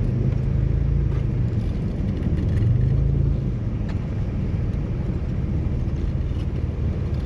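Tow truck engine running steadily as the truck drives up a snowy climb, its low hum swelling louder for about a second a little before the midpoint.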